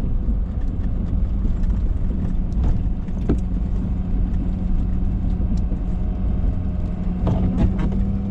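Ford F-350 pickup's engine running under load as its Boss plow pushes snow: a steady low rumble whose pitch steps up slightly about three seconds in, with a few short knocks or scrapes, two of them near the end.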